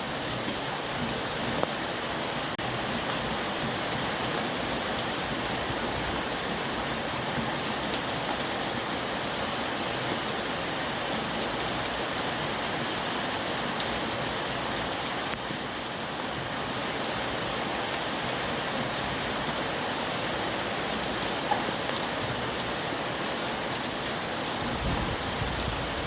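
Steady heavy rain falling, with the patter of individual drops hitting surfaces. Near the end a low rumble comes in under the rain.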